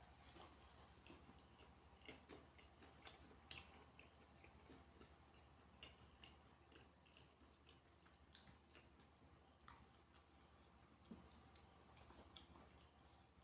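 Near silence with faint, irregular clicks and smacks of a person chewing food, over a low steady hum.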